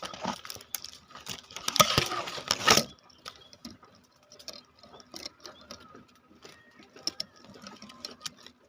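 Dense crackling rustle of leaves and stems being pushed aside by hand, loud for the first three seconds, then dying down to scattered light clicks and rustles.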